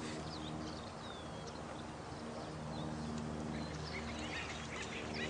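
Birds chirping in short, sweeping high calls over running water and a steady low hum. The calls get busier near the end.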